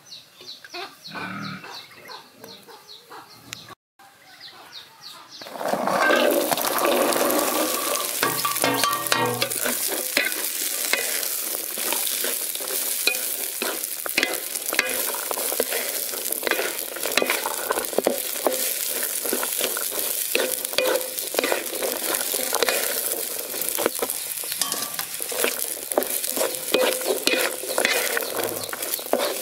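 Corn kernels sizzling in hot oil in an aluminium wok, stirred with a wooden spatula, with many quick clicks and scrapes through a steady hiss. The sizzling sets in loudly about six seconds in, after a quieter start.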